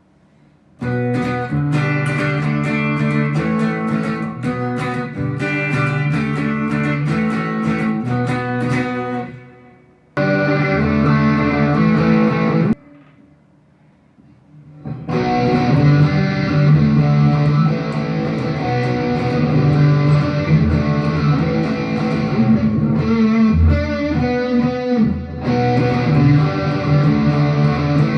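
Electric guitar played through a Mooer GE100 Pro multi-effects processor, in three passages broken by two short pauses, as for changes of preset. The first passage has bright picked notes; the later two sound duller, with the treble cut off.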